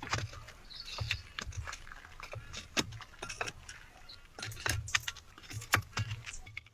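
Irregular run of sharp clicks, crackles and rustles with soft low thumps, the sound of small things being handled or moved about.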